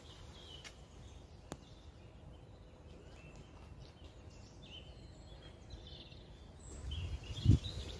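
Outdoor ambience: faint bird chirps over a steady low rumble, with a single click early on and a loud low thump near the end.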